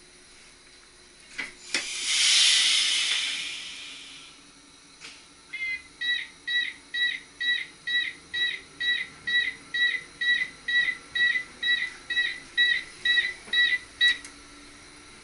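A couple of clicks and a loud burst of compressed air hissing, then a rapid electronic warning beep repeating about twice a second for some eight seconds on an NS SGM Sprinter train, typical of the door-closing signal before departure.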